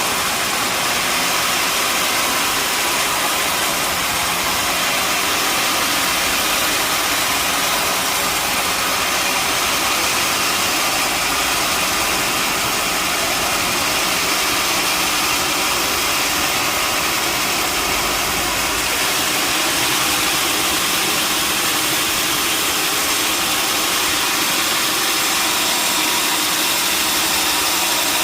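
Sawmill machinery running steadily: a loud, constant mechanical noise with a strong hissing top and no breaks.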